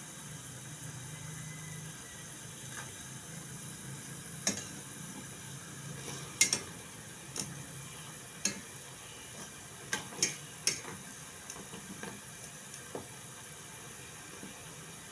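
Kitchen sounds: a steady hiss with a string of sharp clinks, like utensils tapping dishes or a pan, the loudest around the middle.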